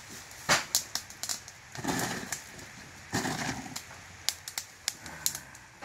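Wood campfire crackling, with many sharp, irregular pops and snaps from the burning wood. Two softer, longer sounds come about two and three seconds in.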